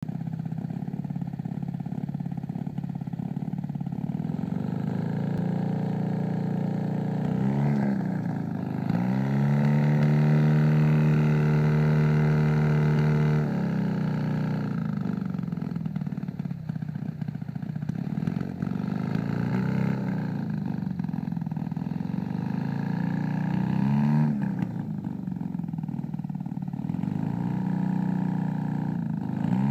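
Vehicle engine running through a new exhaust at idle. It is blipped once quickly, then held at a higher steady speed for about four seconds before dropping back to idle. Two more quick blips come later.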